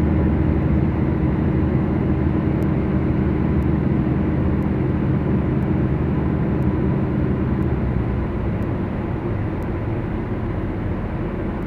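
Twin four-cylinder Lycoming piston engines of a Beechcraft Duchess droning steadily, heard inside the cabin. About eight seconds in the engine note eases a little and turns rougher.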